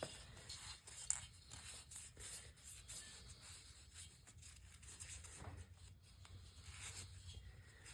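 Faint rubbing and light scraping of hand work on engine parts, with a few small clicks, one sharper about a second in.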